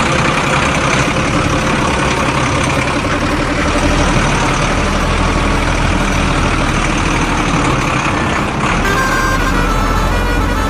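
Heavy vehicle engine running steadily and loudly, with a change about nine seconds in as steady tones come in.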